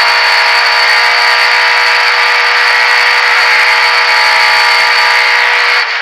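Lada 21011 rally car's 1600 cc four-cylinder engine heard from inside the cabin, held at a steady high pitch under full throttle, with a constant high whine above it. Near the end the engine note drops suddenly as the throttle is lifted.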